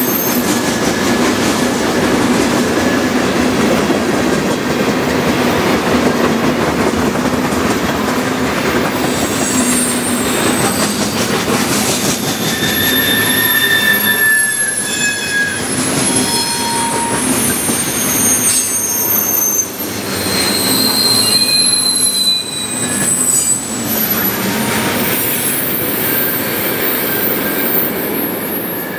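Freight cars of a CN manifest train (tank cars, then boxcars) rolling past close by: a steady rumble and rattle of wheels on rail, with wheel flanges squealing in thin high tones that come and go. The sound trails off at the very end as the last car clears.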